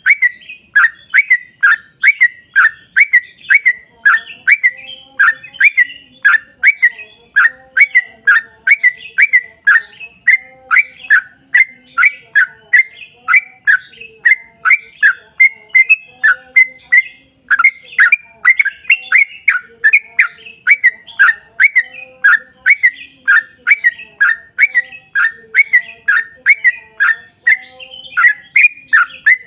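Yellow-vented bulbul (trucuk) singing a long, unbroken run of quick bubbly notes, about two a second.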